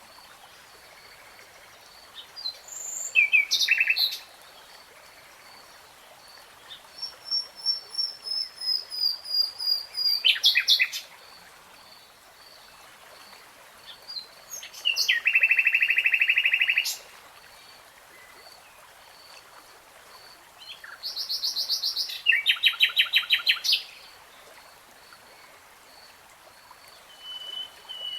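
Nightingale singing in separate phrases a few seconds apart, each made of rapid repeated notes and trills. One phrase speeds up and grows louder, and another is a long buzzy rattle. A faint, evenly spaced high ticking continues through the pauses.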